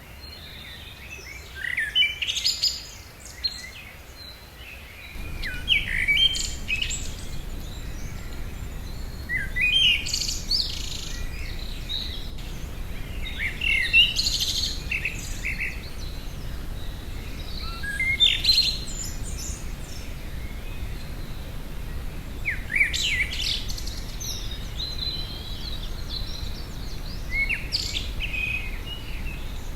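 A songbird singing short, high, varied phrases, one every four seconds or so, with other birds chirping. A low steady rumble comes in about five seconds in.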